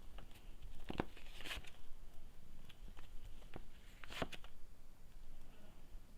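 Tarot cards being handled: a few crisp slaps and rustles as cards are drawn from the deck and laid down, with light clicks between them.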